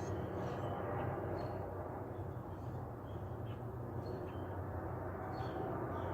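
Outdoor field recording: a steady low noise bed with faint, short bird chirps scattered through it.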